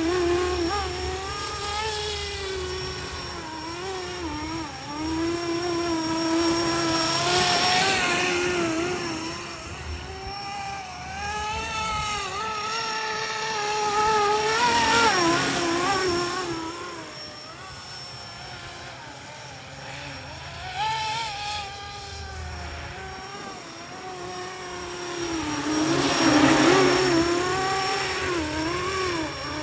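FLISHRC FL500 RC scale helicopter in flight: a whining motor and rotor tone that keeps bending up and down in pitch and swells louder and fainter as the helicopter moves about, loudest about halfway through and again near the end.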